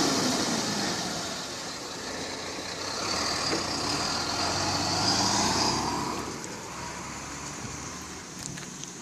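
A truck's engine runs, falling from loud at first, swelling again between about three and six seconds in, then fading.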